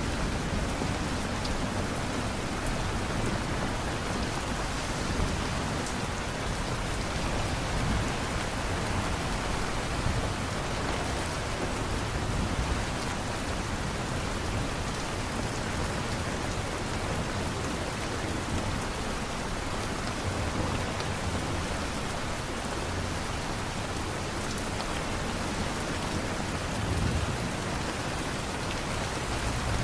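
Steady, continuous rainfall, an even hiss of drops with no letup.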